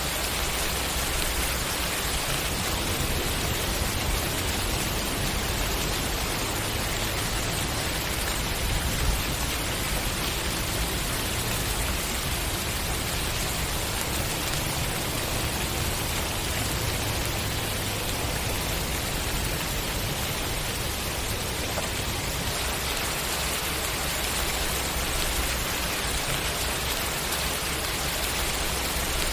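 Steady rain falling, a dense even hiss of many drops with a low rumble underneath.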